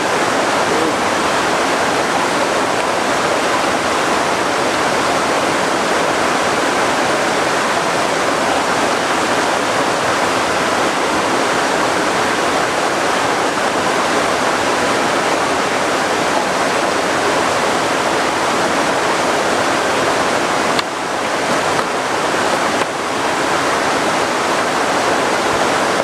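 Loud, steady rush of flowing water, a constant hiss with no pitch, briefly dipping twice near the end.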